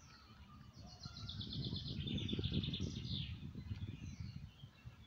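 A songbird singing a fast trill of repeated notes that steps down in pitch, with a short sweeping flourish at the end, over a low background rumble that swells and fades.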